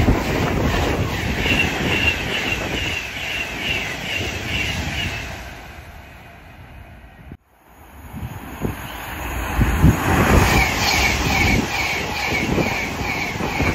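Avanti West Coast Class 390 Pendolino electric trains passing through the station at speed. The first fades away over the first six seconds; after a brief cut in the sound, a second Pendolino's noise builds from about eight seconds in. Both carry a regular rhythmic beat of about three a second.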